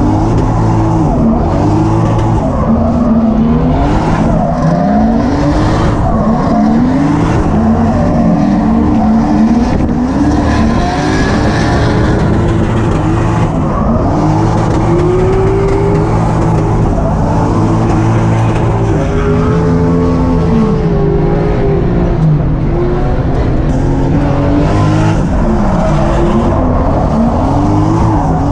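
Drift cars running together, engines revving up and down as the throttle is worked, with tire squeal and skidding from sliding tires.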